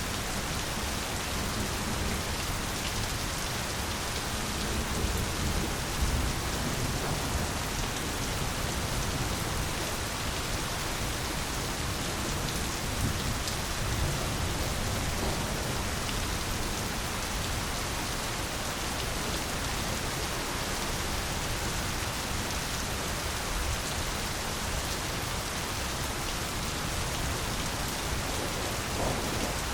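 Steady heavy rain, an even hiss of drops, with a couple of low thunder rumbles about six seconds in and near the middle.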